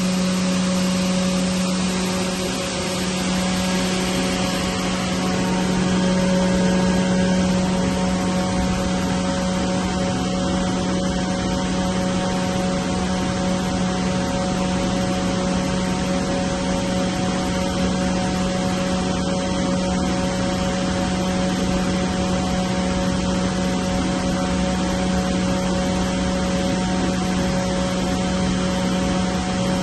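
CompAir L200 oil-injected rotary screw air compressor running steadily: a constant low hum with a few fainter higher tones over an even rushing noise.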